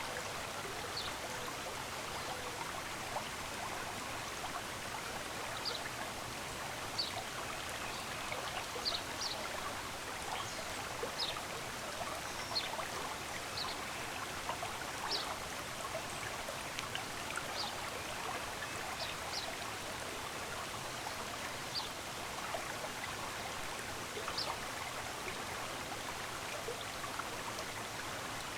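Running stream water, a steady rushing and trickling, with short high bird chirps scattered through it, one every second or two.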